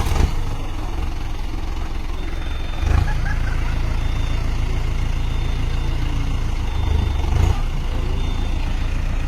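Diesel tractor engines running hard under load, with two brief louder surges about three and seven seconds in.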